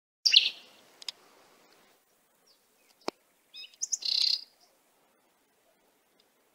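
Bird chirping: a short high call near the start, then a cluster of chirps about four seconds in, with a single sharp click just before.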